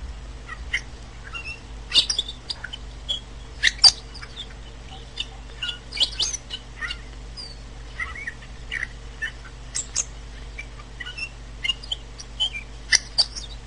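Several songbirds chirping and calling in short, scattered notes, over a faint steady low hum.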